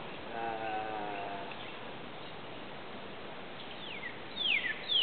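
A bird repeats a quickly falling whistled note about twice a second, starting near the end and getting louder. Earlier, about half a second in, a faint drawn-out call with several tones.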